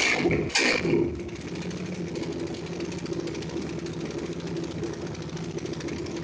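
150 cc motorcycle engine blipped twice at the start, each rev rising and falling quickly, then settling to a steady idle.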